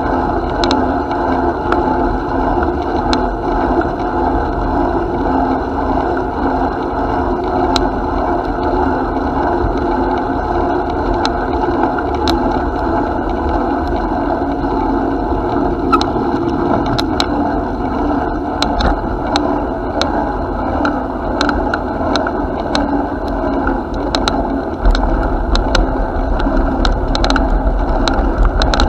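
Steady rolling noise of a bicycle in motion, with scattered sharp clicks and rattles. A low wind rumble on the microphone picks up near the end.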